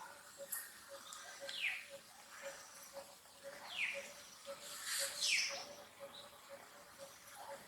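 Short, high animal calls, each falling in pitch, repeated every couple of seconds, the loudest about five seconds in. Beneath them runs a faint, even pulse about twice a second.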